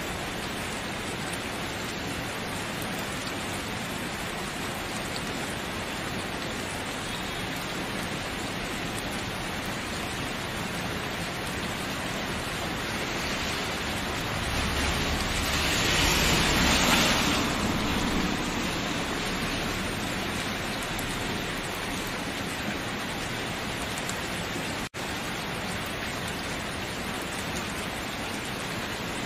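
Steady rain falling, an even hiss of drops that swells louder about halfway through and then settles back. A very brief dropout in the sound comes late on.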